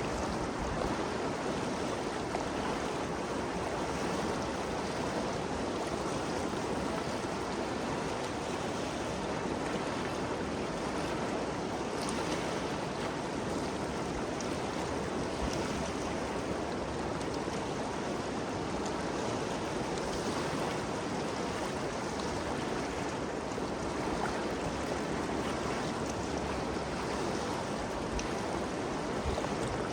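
Ganges River flowing: a steady, even rush of moving water.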